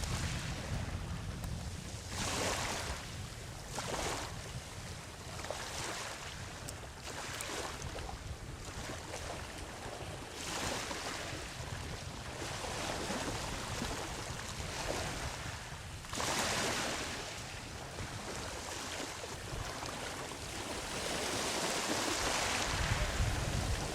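Ocean surf breaking and washing up a beach, one wave after another, in surges every few seconds over a low rumble. A stronger wave breaks about two-thirds of the way through, and the surf builds louder near the end.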